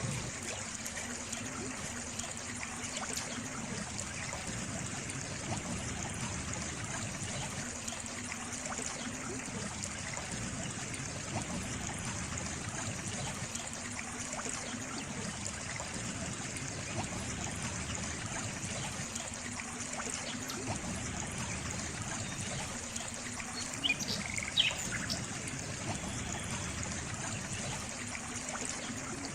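Water trickling steadily, like a small stream. A few short bird chirps come in near the end.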